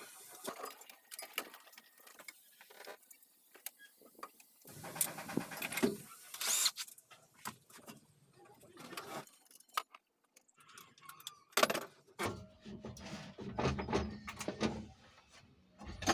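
Metal hand tools and bolts clinking and clicking at irregular intervals during engine-removal work on a Daihatsu Gran Max, with a short metallic ring about six seconds in and a denser low clatter in the last few seconds.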